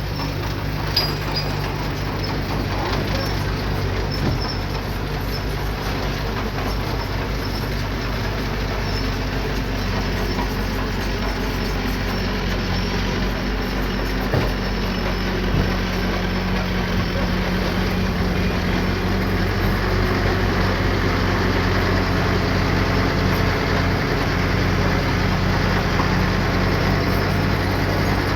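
Diesel engine of heavy earthmoving equipment running steadily, with a few short knocks along the way.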